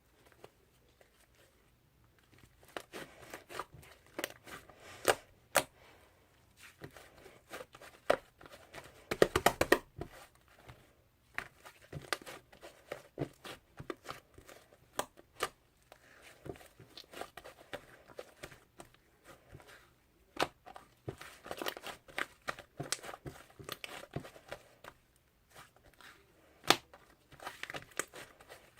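Hands squishing, stretching and pressing fluffy slime, making irregular sticky clicks and small pops, with denser bursts of crackling now and then.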